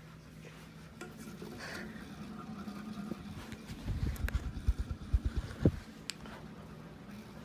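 SMC UF42 ceiling fan motor running with a steady low hum. About four seconds in comes a run of low thumps and knocks lasting under two seconds, then a single click.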